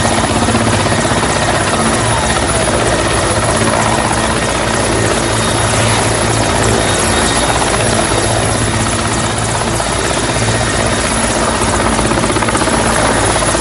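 Mi-8 helicopter's twin turboshaft engines and rotor running steadily, a loud even turbine noise with a pulsing low rotor beat.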